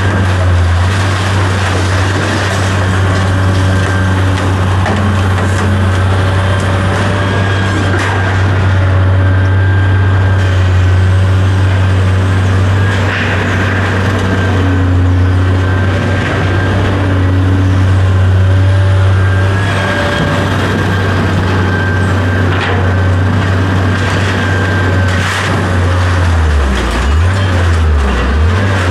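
A large vehicle engine running with a steady low drone; near the end its pitch rises and falls a few times.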